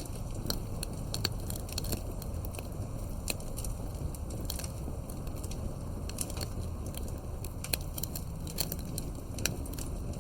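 Wood campfire crackling: irregular sharp pops and snaps scattered through, over a steady low rumble.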